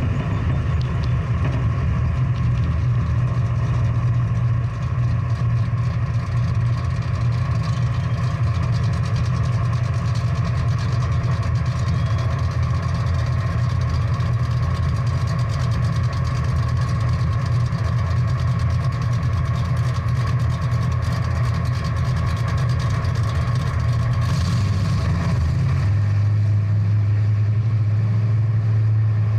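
Big-block V8 muscle car engine idling steadily, its note dropping slightly about 26 seconds in.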